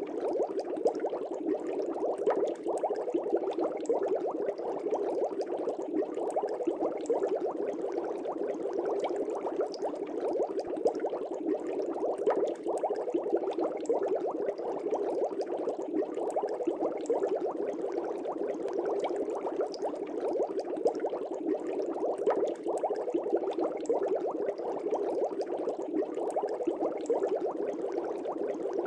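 Air bubbling steadily in an aquarium, a dense stream of small bubbles gurgling and popping at the water surface.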